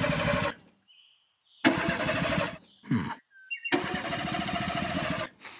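Car engine cranking on the starter without catching: three attempts of about a second each, with short gaps between them and a brief sputter before the last.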